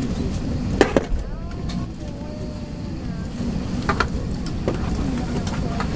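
Airliner cabin ambience during boarding: a steady low rumble, with a few sharp clicks and knocks about a second in and again near four seconds, and faint voices in the background.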